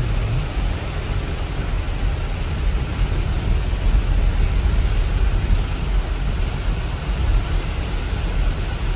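Floodwater after a cloudburst rushing steadily, an even roar with a deep rumble and no breaks.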